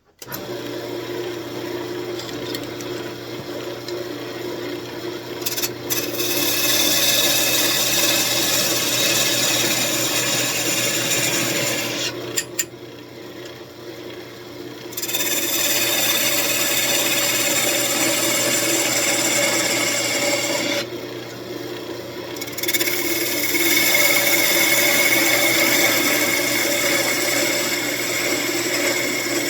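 Wood lathe switched on and spinning a walnut desk leg with a steady motor hum, while a turning tool cuts into the spinning wood with a loud scraping rasp. The cutting comes in three long stretches, breaking off briefly about 12 and 21 seconds in.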